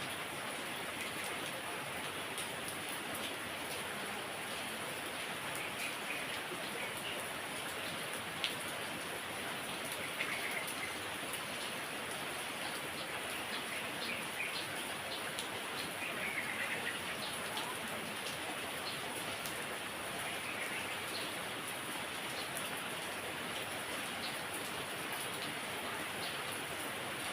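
Heavy rain falling steadily, a constant even patter, with a few short bird chirps breaking through now and then.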